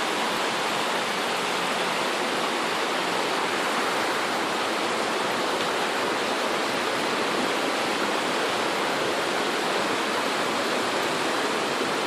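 Steady, even rush of water in typhoon flooding, heavy rain and running floodwater blending into one unbroken hiss.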